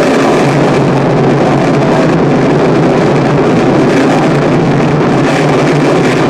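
Harsh noise music: a loud, unbroken wall of dense noise with a few faint held tones buried in it.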